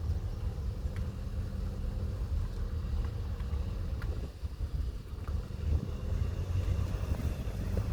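Car engine hum and road rumble heard inside the cabin of a moving car, a steady low drone.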